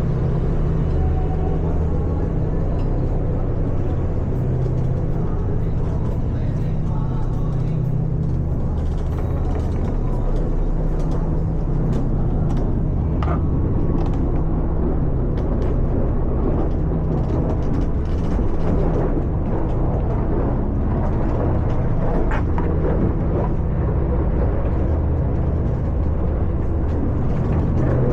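A transfer yacht's engines running steadily under way, a continuous low drone.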